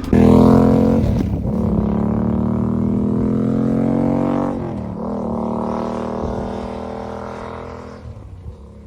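Motorcycle engine running with its pitch slowly falling, two brief dips in pitch, and the sound fading away over the last few seconds.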